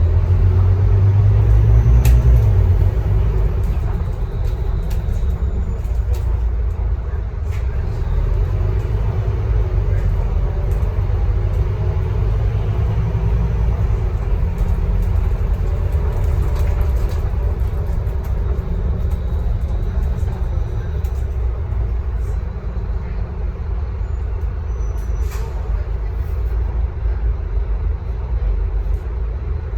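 Scania K310UB bus running on the road, its engine drone louder for the first few seconds, then steady, with scattered clicks and rattles.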